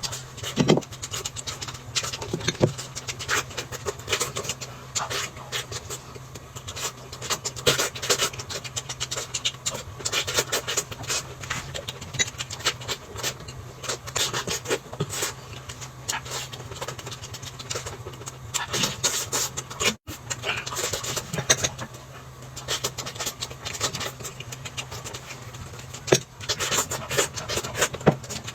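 Close-miked eating: chewing, lip-smacking and irregular wet clicks over a low steady hum, with a brief dropout about two-thirds of the way through.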